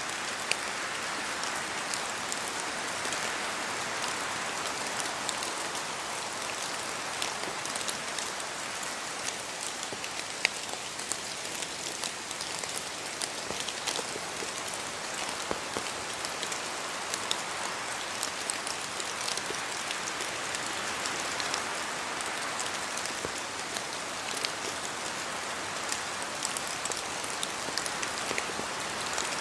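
Steady rain falling in a forest, with many sharp individual drop taps from water dripping off the trees over a constant hiss.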